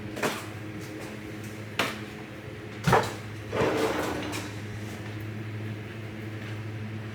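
Kitchen cupboard doors and items being handled: three sharp knocks in the first three seconds, then a short rustle, over the steady hum of a window fan.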